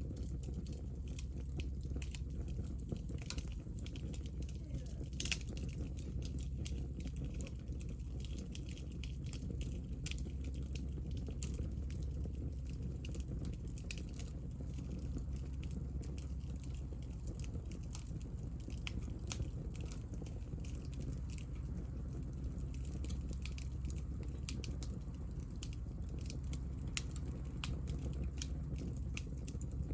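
Hinoki (Japanese cypress) offcuts burning in a wood fire, crackling with frequent small pops over a steady low rumble.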